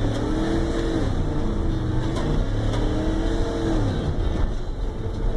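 Truck engine revving under acceleration, its pitch rising then falling away twice.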